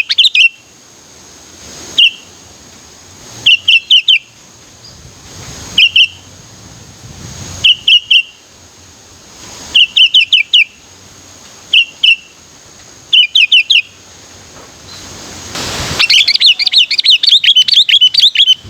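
Sooty-headed bulbul (kutilang) calling: short bursts of one to four quick, clear notes every second or two. Near the end this breaks into a fast, continuous run of chattering notes.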